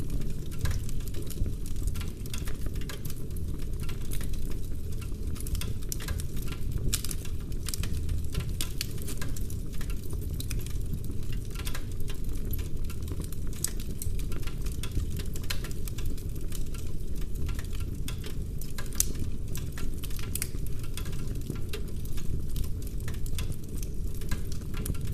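Wood fire burning in a fireplace with dense, irregular crackling and small pops over a steady low rush of the flames.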